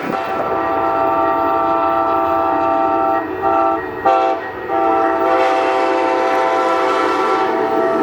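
Pacific Surfliner train's air horn sounding a multi-tone chord in long blasts, broken by two short gaps about three and four seconds in.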